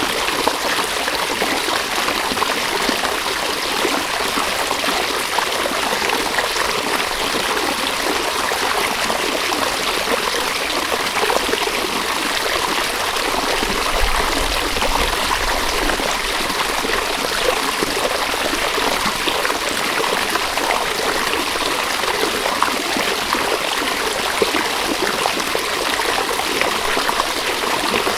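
River water running steadily: an even, continuous rush with no break or change.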